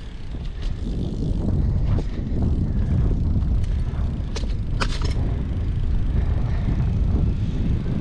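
Wind rumbling on the microphone of a camera on a moving bicycle, swelling about a second in, with a few sharp clicks and rattles from the ride near the middle.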